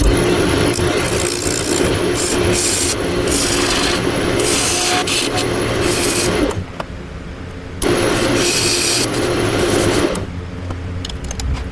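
Wood lathe turning a piece of Osage orange while a turning tool cuts inside its hollow to flatten the bottom: a steady scraping hiss over the lathe's hum. The cutting stops briefly about six and a half seconds in and again near the end.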